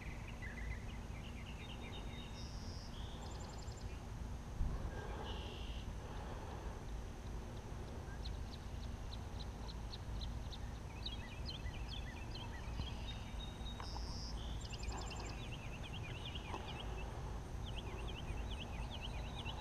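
Songbirds chirping and trilling over a steady low rumble, with a single knock about four and a half seconds in.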